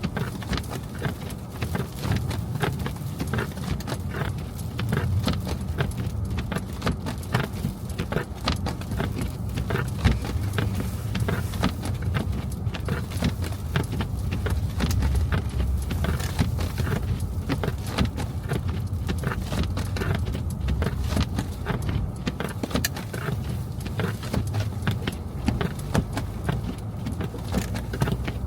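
Car driving on snow-covered streets: a steady low rumble of engine and tyres, with many irregular small clicks and knocks throughout.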